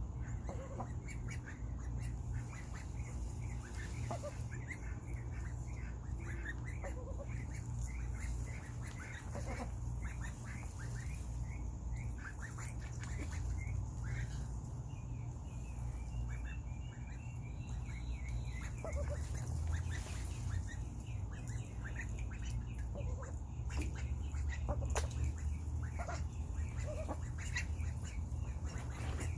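Indian runner ducklings quacking and peeping in quick, busy calls, with a few sharp clicks and a steady low hum underneath.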